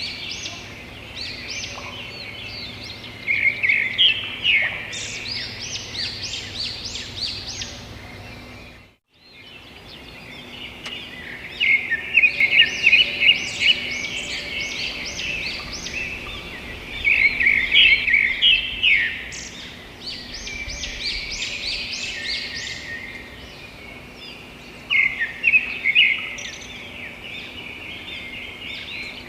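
Birds chirping and twittering in quick runs of short, high notes, several overlapping. The sound cuts out for a moment about nine seconds in, then resumes with louder bursts.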